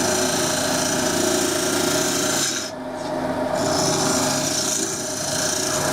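Wood lathe running while a hand-held turning tool scrapes a spinning green-wood cup blank, a steady rasping over the machine's hum. The cut stops briefly a little before halfway, leaving only the hum, then resumes.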